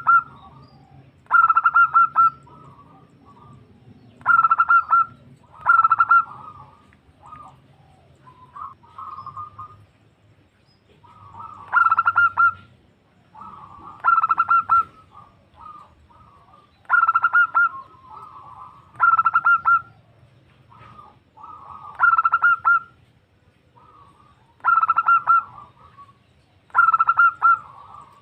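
Female zebra dove (perkutut) cooing: loud bursts of rapid, staccato coos that come back every two to three seconds, often in pairs, with softer coos between them.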